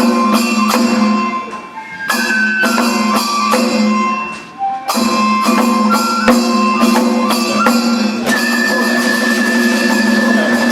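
Kagura festival music for a lion dance: a flute plays a melody of held notes that step up and down, over sharp drum strikes. It breaks off briefly twice, then settles on one long high note near the end.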